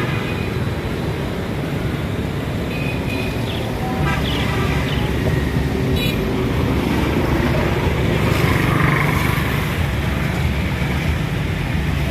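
Steady low rumble of road traffic, with a few short high-pitched chirps or squeaks about three to five seconds in and a brief click near the middle.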